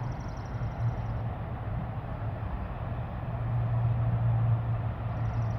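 Steady low hum of a vehicle engine with road and traffic noise, swelling a little past the middle.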